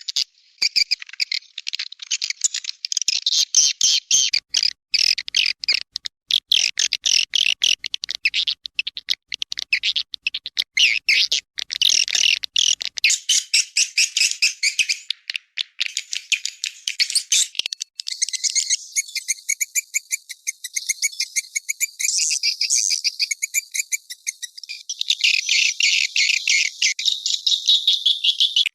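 Swiftlet lure-call recording: dense, rapid twittering and chirping of edible-nest swiftlets, played to draw the birds into a nesting house. About two-thirds of the way through, a lower, faster trill joins the chatter for several seconds.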